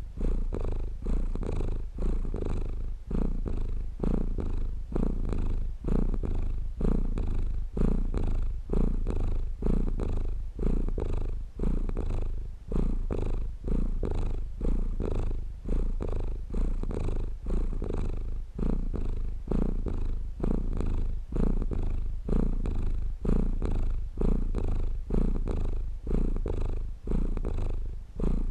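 Domestic cat purring close up, a steady low rumble that swells and dips about once a second with each breath in and out.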